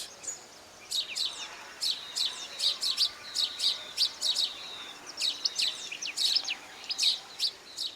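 House sparrows chirping: a run of short, sharp chirps, two or three a second in an irregular series, starting about a second in.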